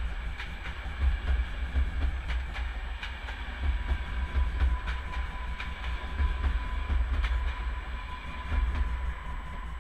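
České dráhy passenger coaches rolling past at a station platform: a loud low rumble with irregular clicks of the wheels over rail joints. A faint steady whine comes in about halfway.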